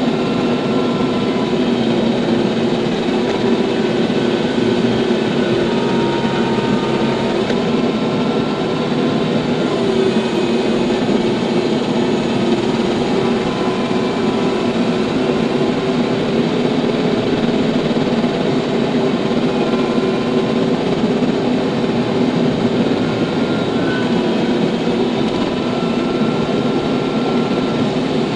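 TYM T574 tractor's diesel engine running steadily under constant throttle.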